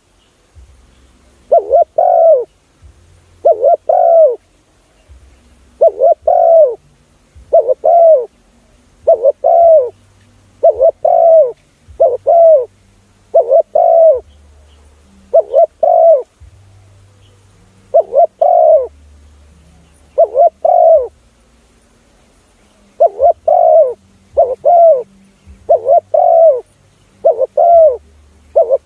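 Spotted dove cooing loudly and repeatedly, mostly in phrases of two or three coos, over and over: a call played to lure spotted doves.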